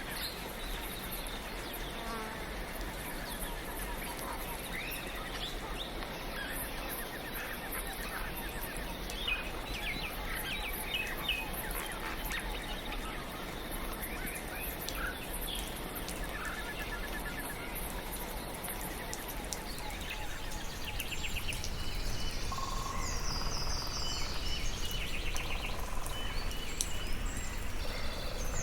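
Soft rain hissing steadily under many songbirds chirping and trilling. The rain grows louder about three quarters of the way through.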